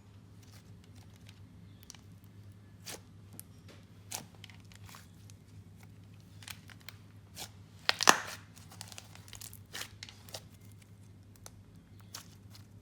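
Clay slime with a clear slime layer being stretched and pressed by hand, giving scattered small clicks and pops, with a louder burst of crackling about eight seconds in.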